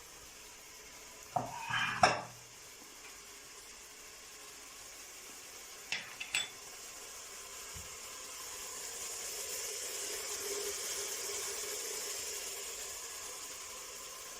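Food sizzling on a grill over an open wood fire, a steady hiss that swells in the second half. A few short metallic clinks and knocks come about a second and a half in and again about six seconds in.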